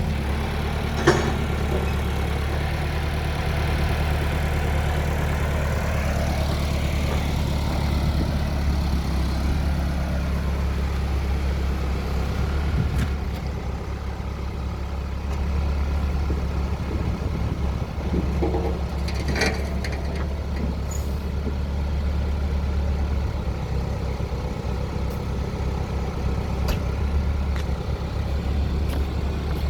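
Massey Ferguson backhoe loader's diesel engine running steadily at a low, even speed, with a few sharp metallic knocks scattered through.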